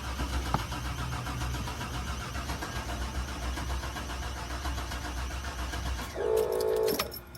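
Old GMC truck's engine cranking on the starter for about six seconds with an even rhythm and not catching: no fuel reaches it because the fuel pump is dead. A short steady tone sounds near the end.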